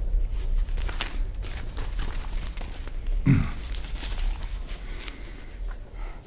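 Steady low rumble of a moving train carriage, with newspaper pages rustling and crinkling as the paper is lowered and folded. A brief low pitched sound stands out about three seconds in.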